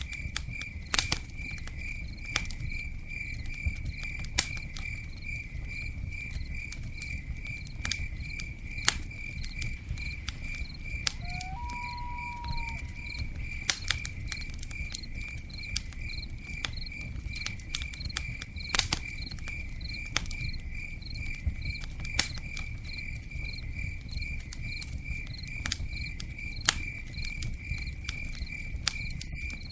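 Campfire crackling, with sharp, irregular pops over a low steady rumble of burning, while a cricket chirps in a steady, regular pulse. A single short whistled note comes about twelve seconds in.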